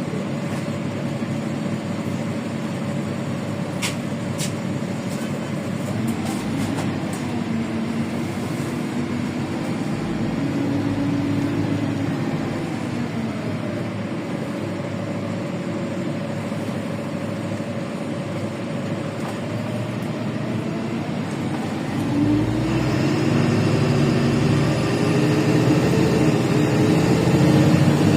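LiAZ 5292.65 city bus's Yuchai diesel engine and transmission running under way, heard from inside the cabin, with a whine that drifts up and down in pitch. About 22 seconds in, it gets louder and rises steadily in pitch as the bus accelerates.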